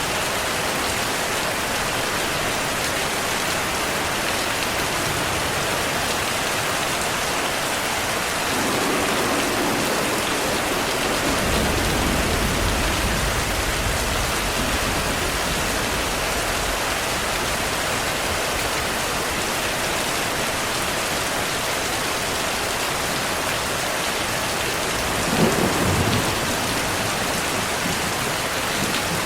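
Heavy, steady rainfall with thunder: a low rolling rumble builds about a third of the way in and fades, and a sharper thunderclap with a brief rumble comes near the end.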